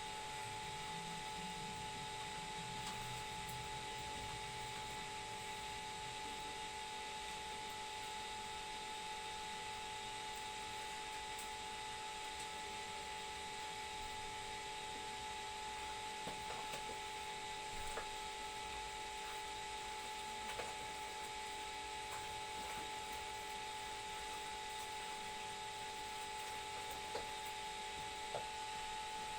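A steady electrical hum with two held tones, with a few faint short clicks now and then.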